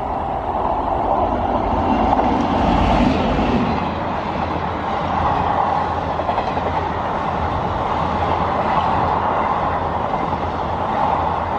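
Express train passing at speed close by: a WAP-7 electric locomotive followed by a rake of ICF coaches, their wheels running steadily on the rails. The noise swells about three seconds in as the locomotive goes by, then holds steady as the coaches stream past.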